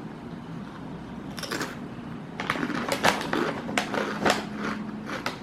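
Potato chips being bitten and chewed close to the mouth: a run of sharp, crisp crunches, growing denser about halfway through.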